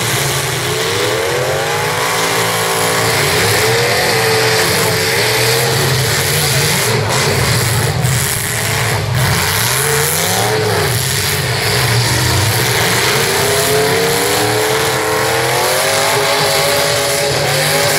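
Demolition derby cars' engines revving up and down over and over as they ram each other, with a couple of sharp crash knocks about seven and nine seconds in.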